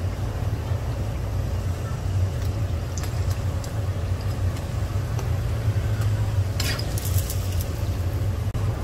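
Hotteok sizzling as they fry in oil on a griddle, over a steady low rumble. A short run of sharp metal clicks from the tongs comes about seven seconds in.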